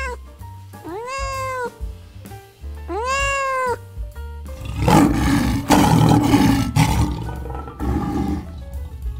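A domestic tabby cat meowing three times, each meow rising then falling in pitch. A little past halfway a lion takes over with a loud, rough growling call that runs for about four seconds. Background music plays under both.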